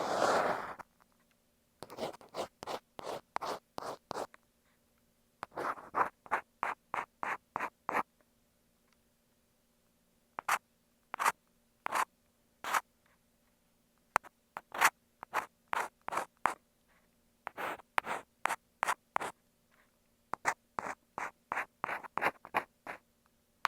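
Ear pick scraping against an earphone microphone in short, sharp strokes, about three or four a second, in runs broken by brief pauses.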